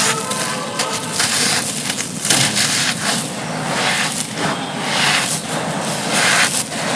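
Dry, gritty crumbly slabs being crushed and crumbled by hand: a run of crisp crunches of varying loudness.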